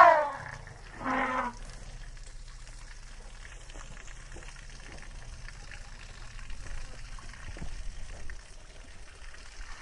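Wild elephant calling: a loud trumpet right at the start and a shorter, lower call about a second in, followed by a steady crackling hiss like rain or rustling vegetation.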